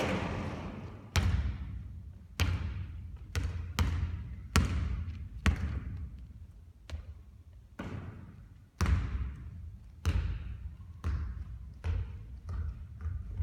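Basketball bouncing on a gym floor: a dozen or so hard thuds at an irregular pace of about one a second, each ringing out with a long echo.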